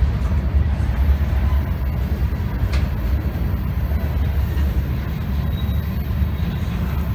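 A train rolling past with a steady low rumble, and one sharp click nearly three seconds in.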